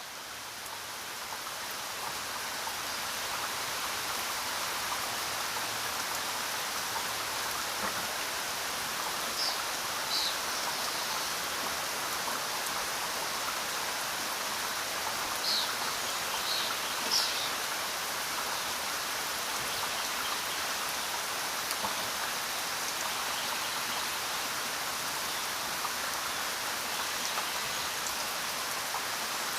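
Steady rainfall, fading in over the first few seconds and then even. A few short, high chirps sound over it around the middle.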